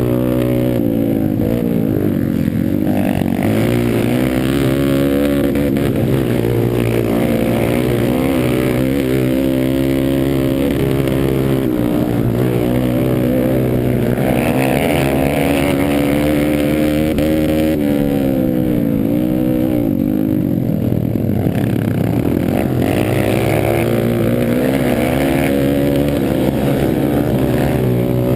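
Pit bike engine racing on a motocross track, revving up and down over and over as it accelerates and backs off.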